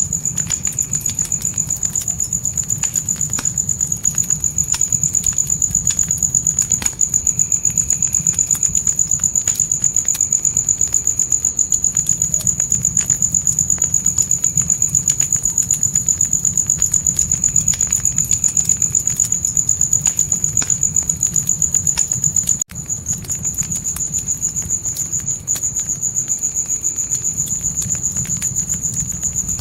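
Crickets trilling continuously at a high pitch over a crackling fire, with sharp pops and a low, steady rumble from the flames. The sound dips briefly about three-quarters of the way through.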